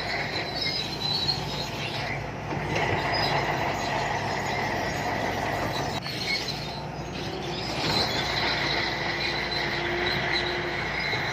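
Shantui crawler bulldozer working: its diesel engine runs steadily under a continuous high squeal from its steel tracks.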